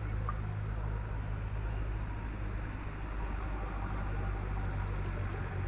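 Steady low engine drone of a running vehicle, an even hum with no change in pitch or level.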